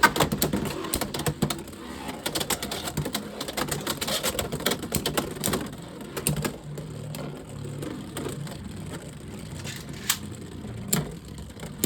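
Two Beyblade X spinning tops, Unicorn Sting and Dran Dagger, clattering and rattling against each other and the plastic stadium in rapid clicks. The clatter thins out partway through, with a few louder clacks near the end as both tops self-KO into the stadium pockets.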